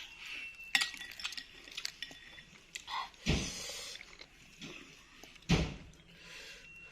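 Close-up eating sounds of a spicy meatball soup: many small clicks and clinks, some leaving a brief ringing tone, like a spoon against a bowl, mixed with mouth sounds. Two louder, longer mouth sounds come about three and five and a half seconds in.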